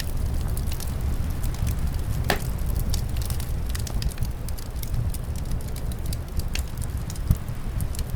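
Wood fire crackling in a fireplace: irregular sharp pops and snaps, one louder pop about two seconds in, over a steady low rumble, likely from the wind in the mix.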